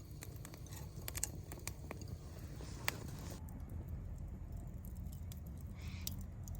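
Wood campfire crackling, with scattered sharp pops, the loudest about three seconds in, over a low steady rumble.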